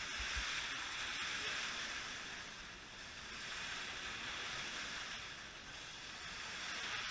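Several slot cars running laps on a racing track, their small electric motors giving a steady whirring hiss that swells and fades as the cars pass, with a few faint clicks near the start.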